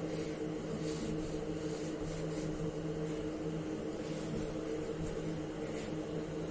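A steady mechanical hum with a low pitched drone, with faint soft swishes of a cloth wiping a washing machine's body every second or so.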